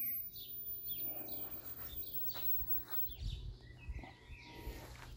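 Garden birds chirping and singing, short repeated chirps with a few held whistled notes, over a few dull low bumps near the middle.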